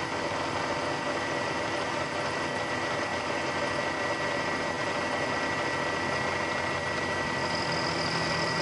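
Knee milling machine running steadily with a 3/8 in high-speed steel four-flute end mill cutting aluminum in a roughing pass: a continuous machining noise over a steady motor and spindle hum.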